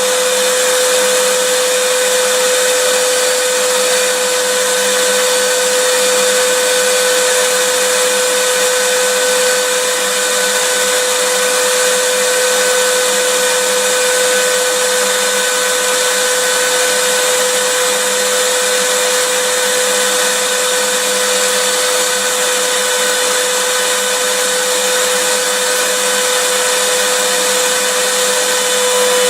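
Vacuum cleaner running continuously: a steady motor whine with a strong hum and airy hiss, unchanging throughout.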